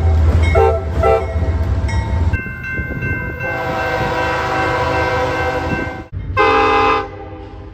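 Diesel locomotive air horns sounding: a few short blasts over a low engine rumble, then a long held horn chord. After an abrupt break comes one more loud short blast.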